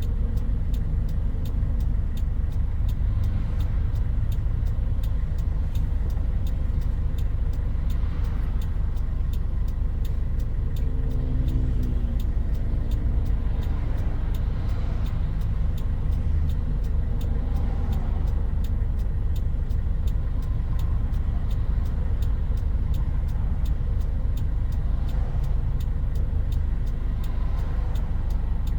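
An old Toyota Hilux Mighty-X pickup's engine and tyres making a steady low rumble inside the cabin while driving, with the engine note shifting briefly about twelve seconds in.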